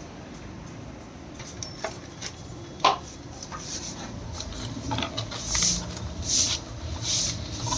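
Hand work on motorcycle engine parts: metal parts and tools clink and knock a few times, the loudest knock about three seconds in. From about five and a half seconds in come steady strokes of scraping or rubbing, roughly one every three-quarters of a second.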